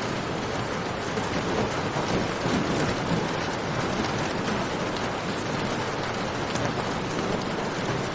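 Steady rain with a campfire crackling, a dense even hiss with faint scattered pops.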